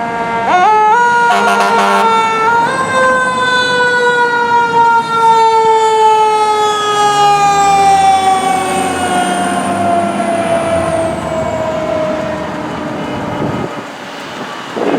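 A fire truck's mechanical Federal Q siren winds up quickly, then coasts down in one long, slowly falling wail that lasts about ten seconds before it fades out. A brief rapid pulsing comes near the start, while the siren is rising.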